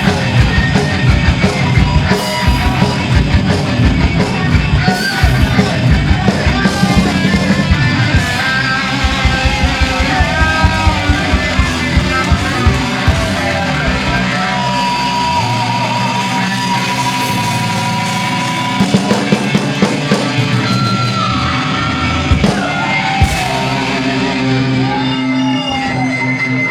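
Live punk band playing: distorted electric guitar, bass and drums with shouted vocals.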